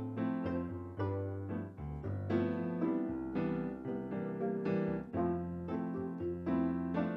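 Live instrumental music led by piano, with notes struck in quick succession over sustained low bass notes.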